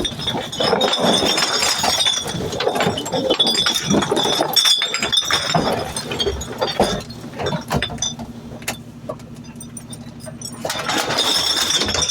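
Glass bottles and other trash clinking and clattering as a load of refuse goes into a garbage truck, over the steady hum of the truck's engine. The clatter thins out for a couple of seconds near the end.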